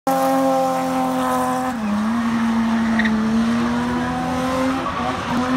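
Car engine held at high revs while the car spins with its rear wheels smoking, a steady drone that drops briefly about two seconds in and then slowly climbs again, over the hiss and squeal of the tyres spinning on tarmac.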